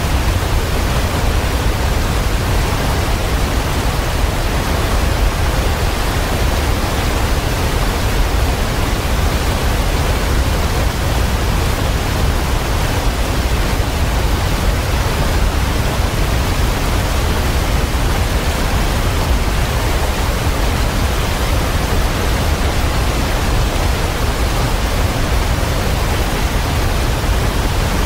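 Waterfall with a steady, loud rush of falling water and a strong low rumble underneath, unchanging throughout.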